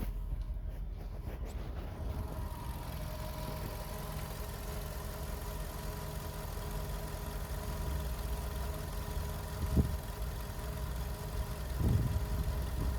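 Skoda Octavia 1.6 BSE four-cylinder petrol engine idling steadily, with a constant low hum and a faint steady whine. Two brief thumps come in the last few seconds.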